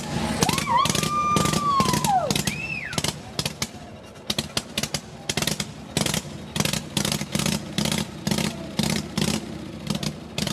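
Antique motorcycle engine running at a slow, loping idle, its exhaust pulses coming about two to three a second. In the first two seconds a whistle-like tone rises and then falls away.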